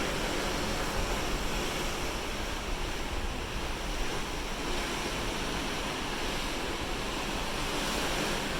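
Steady rushing of open-ocean waves and wash along a moving cruise ship, with some wind.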